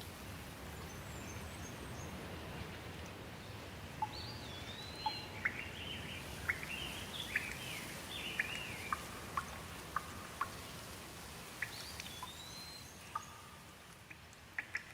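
Steady rain falling, with a bird calling over it: a run of whistled, sliding notes and short chirps from about four seconds in until near the end, as the rain thins out.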